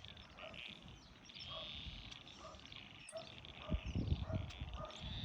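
Outdoor spring ambience of birds calling: a short low call repeats about twice a second over busier high chirping. Low rumbling comes in during the second half and is the loudest part.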